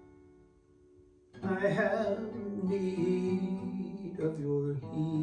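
Acoustic guitar music: a strummed chord rings and fades away, then strumming starts again loudly about a second and a half in.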